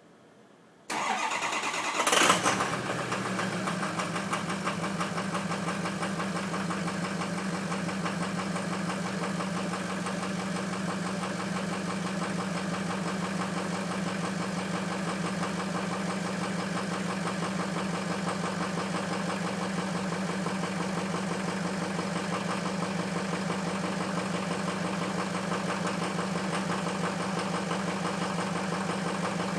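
Ford F350 engine cold-starting: it cranks about a second in, catches with a loud burst a second later, then settles into a steady idle. The truck is running with two bad injectors.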